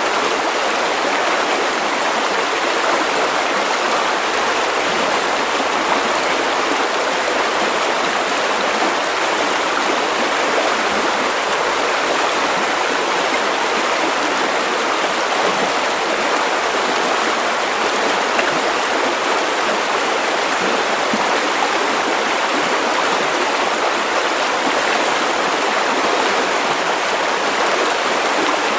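River water running over stones: a steady rushing and babbling flow.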